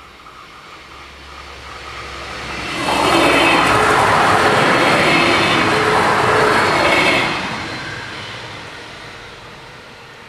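Bombardier Talent diesel multiple unit passing at speed over a level crossing: wheels on rails and the train's running noise build up as it approaches, are loud for about four seconds as the cars go by, then fade as it runs off.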